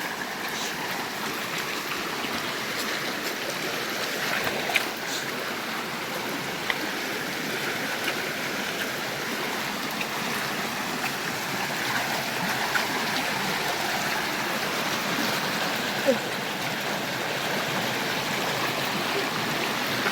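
River water running steadily, a continuous rushing hiss, with a few sharp knocks about five, seven and sixteen seconds in.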